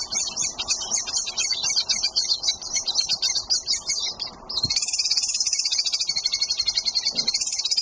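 Chimney swifts chittering: a fast run of high, repeated chips that turns into a denser, louder, unbroken chatter a little past halfway.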